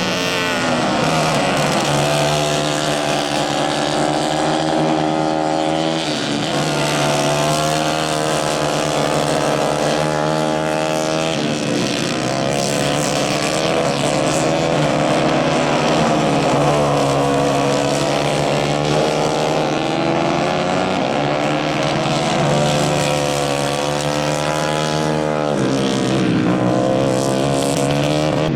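Several 150 cc racing karts running together at high revs, their overlapping engine notes falling off and then climbing again every few seconds.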